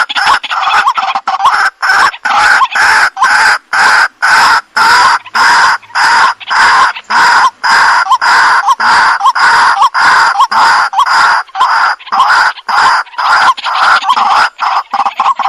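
Waterhen (jal murgi) calling: a loud, unbroken run of short, harsh repeated notes, a couple or so each second.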